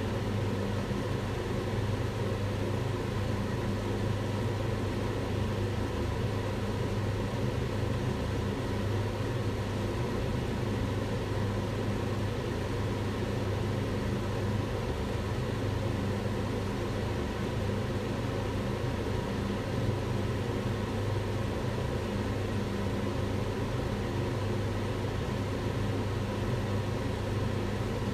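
Kitchen range hood extractor fan running steadily: an even rush of air over a strong low motor hum.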